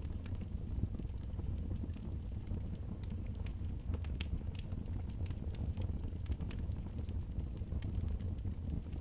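Fireplace wood fire crackling, with sharp irregular pops over a steady low rumble.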